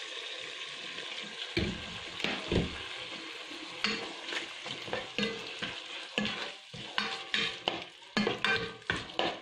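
Chicken pieces and onions sizzling in a pot just after soy sauce is poured in, then a spatula stirring them, with a run of irregular scrapes and knocks against the pot.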